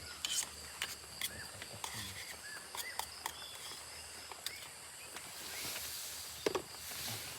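Hot cooking oil crackling and spitting in a pan as food fries: many short sharp pops, with a brief stretch of louder hissing about two-thirds of the way through. A steady high insect drone runs underneath.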